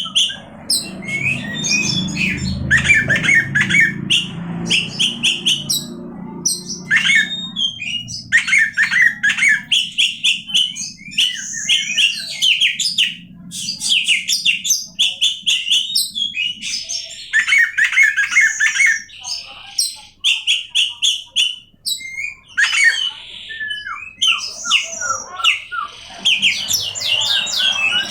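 Oriental magpie-robin (kacer) singing a long, varied song: bursts of rapid repeated notes, whistles and harsh chattering phrases with short pauses between them. A low hum sits under the song for the first several seconds.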